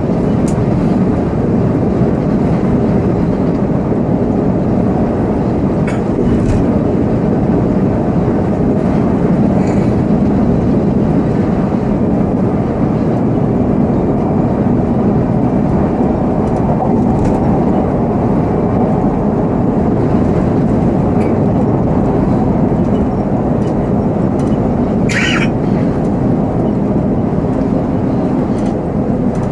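Volvo B7R coach on the move, heard from the driver's seat: steady engine and road noise, with a few light rattles and one short high-pitched sound about 25 seconds in.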